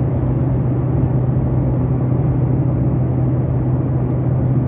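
Steady engine drone inside an airliner cabin: an unbroken low hum with a rushing noise over it.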